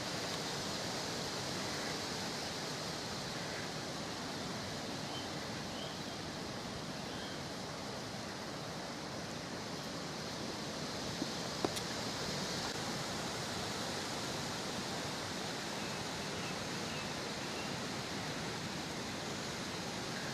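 Steady, even hiss with two brief clicks a little past halfway.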